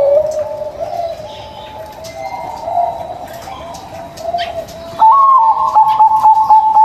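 Zebra doves (perkutut) cooing: a series of soft trilled notes, quieter through the middle and loud again from about five seconds in.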